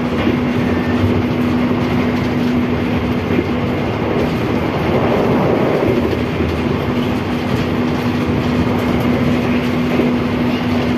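Ride noise inside a moving executive-class passenger coach: the steady rumble of steel wheels running on the rails, with a constant air-conditioning hum under it. The rumble swells briefly about halfway through.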